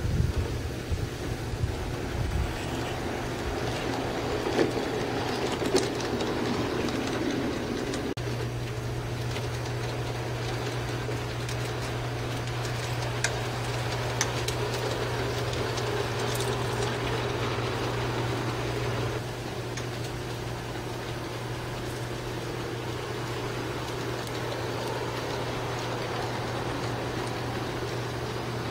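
G-scale model train running on an outdoor garden railway loop: a steady motor hum with wheel and track noise and a few scattered clicks.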